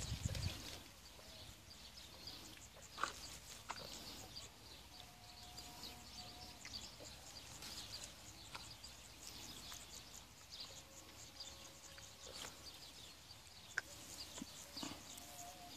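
Quiet outdoor ambience with faint, scattered bird chirps, and a few soft clicks.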